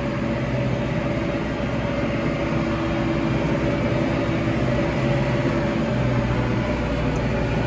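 Tractor engine running steadily as it drives across a paddock, with an even, unchanging drone.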